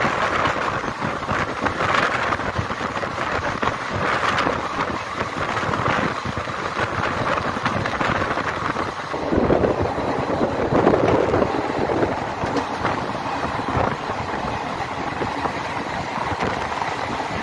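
Running noise heard on board a moving ICF passenger coach: a steady wheel-on-rail rumble and rattle, with soft swells every couple of seconds and a louder swell about ten seconds in.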